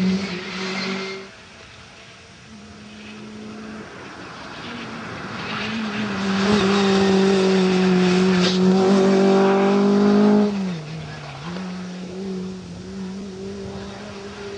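Rally car engine running hard at high revs: loud as the car passes close, fading about a second in, then growing loud again as it comes near. About ten seconds in the engine note drops sharply with a brief dip in pitch, and it runs on more quietly as the car moves off.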